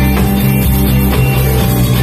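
Instrumental math rock: electric guitars playing over bass and drums.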